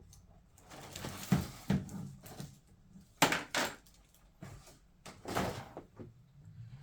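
Handling noise from a scale model airliner's parts: a few sharp clicks and knocks with short bursts of rustling as the pieces are picked up and set down.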